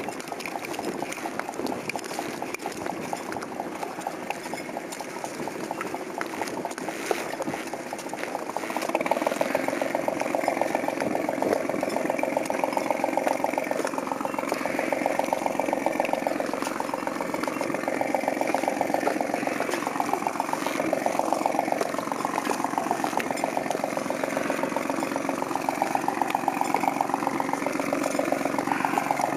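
A boat's engine running steadily at idle, with a fast, even pulse; it gets louder about nine seconds in and stays at that level, its tone slowly wavering.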